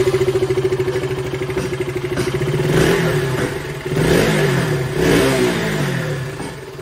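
KTM Duke 200's single-cylinder four-stroke engine, freshly started, idling and then blipped on the throttle a few times in the middle, the revs rising and falling back to idle each time.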